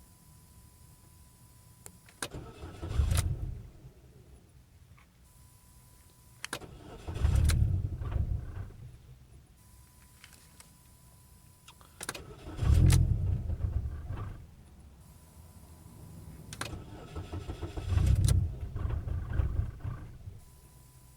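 Car engine running on E85 ethanol fuel being started from cold: four start attempts a few seconds apart, each a click and a short burst of cranking and firing that fades away instead of settling into an idle, typical of a hard cold start on ethanol.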